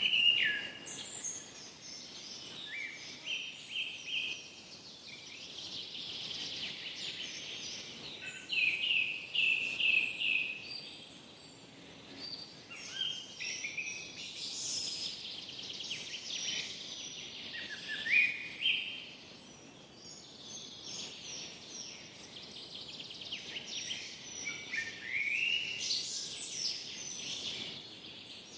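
Forest birds singing: repeated phrases of chirps, trills and rising whistles every few seconds over a faint steady background hiss.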